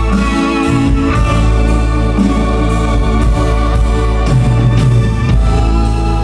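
Live minimalist band music with held organ-like keyboard chords over a steady bass.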